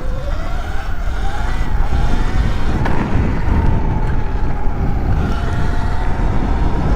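Sur Ron electric dirt bike's motor whining as it is ridden, the whine rising in pitch over the first two seconds as it speeds up and then holding steady, over heavy wind rumble on the helmet-mounted microphone.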